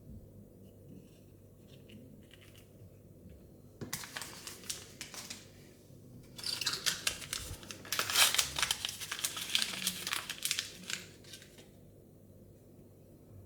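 Thin plastic wrapping crinkling and being torn open by hand, in two spells: a short one about four seconds in, then a longer, louder one from about six seconds to near the end.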